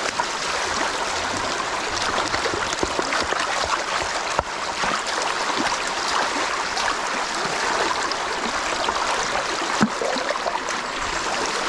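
Mountain stream running over rocks: a steady rushing and trickling of water, with a couple of sharp knocks about four and ten seconds in.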